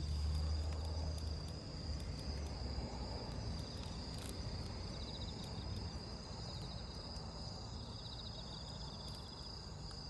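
Crickets and other autumn night insects chirping steadily: a constant high trill with repeated pulsed chirps over a faint low background rumble.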